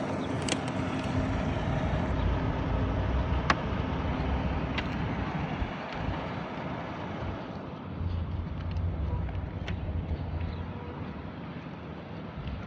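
Truck running with a steady low engine and road rumble and a few faint clicks.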